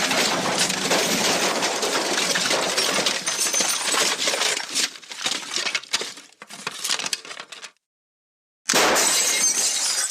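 The MGM 'Elephant Smash' stock sound effect: a long crash of breaking glass and crockery. The crash breaks up into scattered clinks of falling pieces and stops about 7.5 seconds in, and a second crash starts about a second later.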